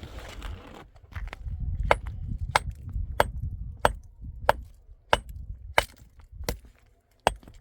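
A steady run of sharp knocks, about three every two seconds, over a low rumble.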